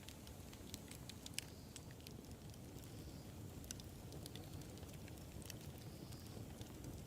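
Wood fire burning: a steady low rumble of the flames with irregular crackles and small sharp pops, a few of them louder, in the first half.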